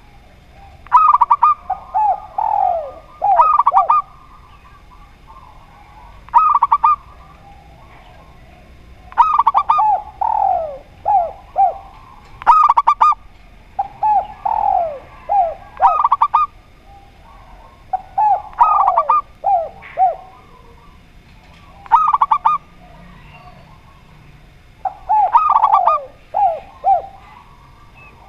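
Doves cooing, spotted dove and zebra dove calls: a call phrase about every three seconds, each a few short clipped notes followed by quick falling coos.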